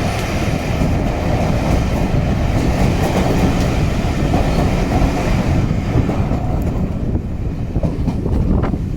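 Steam-hauled passenger train running along the line, heard from a carriage: a steady, loud rumble of the carriages on the track, with a hiss over the top that thins out about six seconds in.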